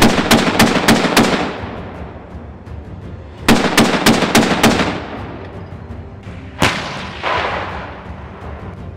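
Gunfire: two bursts of rapid automatic fire, each of about five shots over roughly a second with an echoing tail. Two single shots follow, under a second apart.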